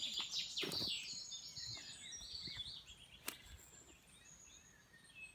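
Woodland birds singing: fast runs of high chirping notes that fade out after about two and a half seconds. A single sharp click comes about three seconds in.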